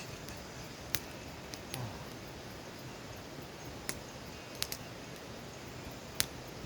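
Wood campfire burning with a steady hiss and a handful of sharp crackles and pops, the loudest about six seconds in.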